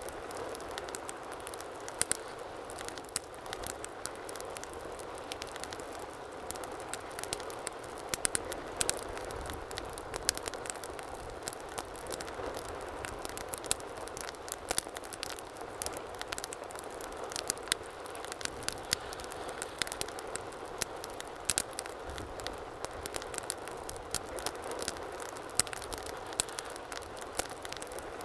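Wood fire burning in a fireplace: a steady low hiss of flames with constant irregular crackling and occasional sharper pops.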